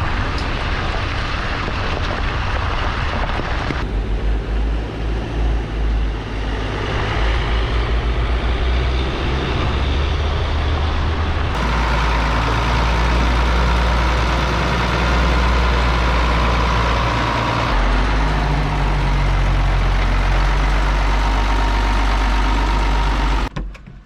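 Heavy diesel engine running steadily while driving on the road. The sound changes abruptly a few times, as the shots are cut together, and falls away sharply just before the end.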